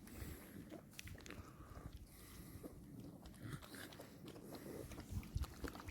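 Quiet night ambience with faint, scattered clicks and short rustles close by.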